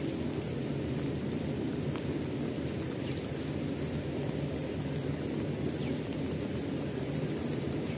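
Steady rain falling, an even rush heaviest in the low range, with faint scattered ticks of drops.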